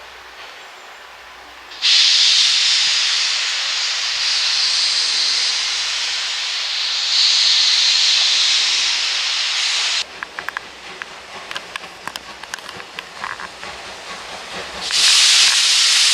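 Steam locomotive venting steam: a loud, even hiss that starts suddenly about two seconds in and stops abruptly around ten seconds. A quieter stretch of irregular clicks follows, then a loud hiss of steam starts again near the end.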